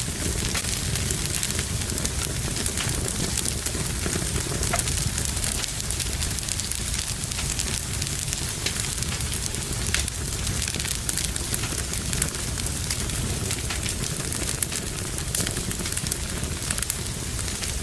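Wood fire burning in a fireplace: a steady crackle with many small, sharp, irregular pops over a low rumble.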